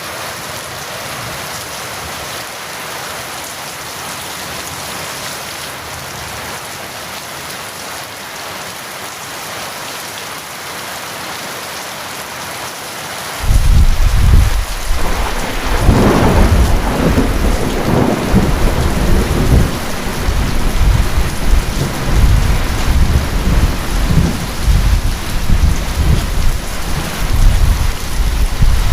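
Steady rain falling, then about halfway through a clap of thunder breaks in suddenly and rolls on as a loud, uneven rumble over the rain.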